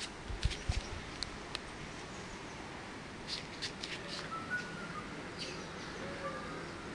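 Small birds chirping in short, scattered high calls over a steady outdoor background hum. A few low bumps sound in the first second.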